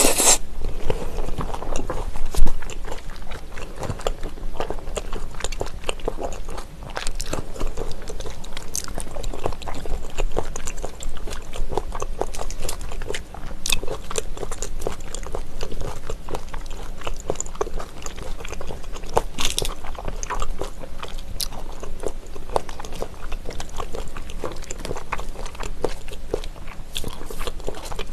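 Close-miked chewing and biting of raw trout sashimi with vegetables: a steady run of small wet smacks and clicks, with some crunching, and a louder slurp at the very start.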